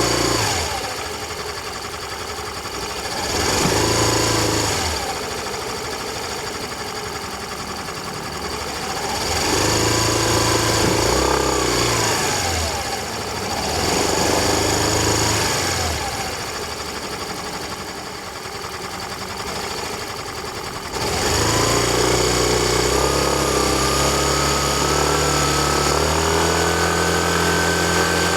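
Yamaha Fazzio scooter's 125 cc single-cylinder engine riding along, its pitch rising and falling three or four times as the throttle is opened and eased off. In the last third it picks up in one long, steady climb in pitch.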